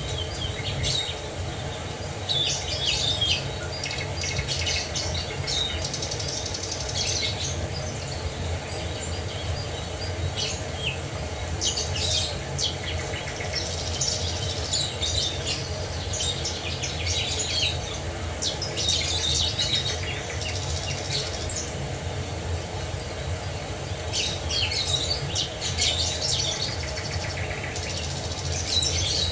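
Several small birds chirping and singing in short bursts over a steady low rush of falling water.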